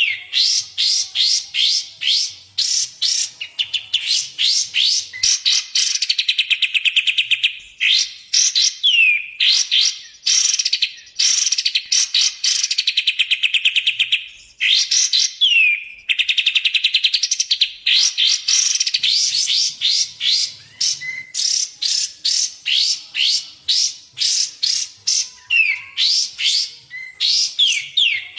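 Song of cage bulbuls, the kapas tembak and the cucak jenggot, from a tutoring recording. It runs as fast series of sharp, falling notes, about four a second, broken by several long, very rapid trills.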